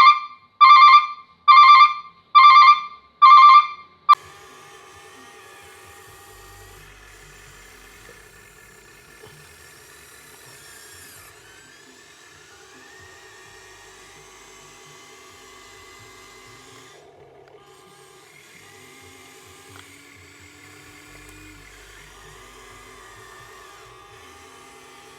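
Five loud, evenly spaced electronic beeps, then the small electric motors of an RC excavator whining steadily as it works, the pitch shifting now and then as the loads change.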